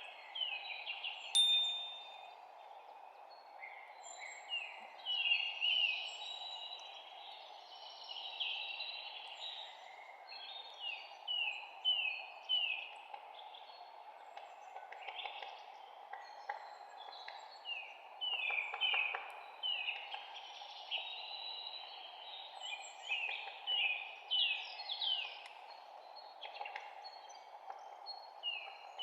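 Several songbirds chirping, mostly quick series of short falling notes, over a steady background hiss.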